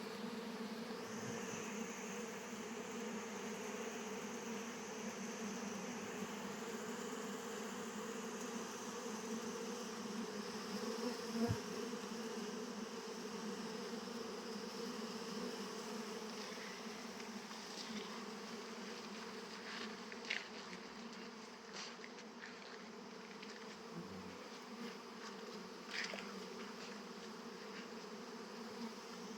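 Many honeybees buzzing around a hive entrance, a steady low hum throughout. A single sharp tap comes about a third of the way in.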